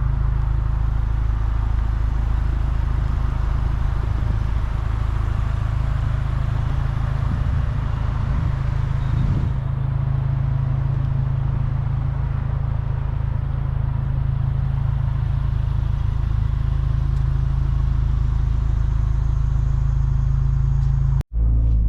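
2016 Lexus IS 200t's 2.0-litre turbo four-cylinder, with an axle-back muffler-delete exhaust, driving at a steady speed: a constant low drone of engine, exhaust and road noise with no revving. It cuts off abruptly for an instant just before the end.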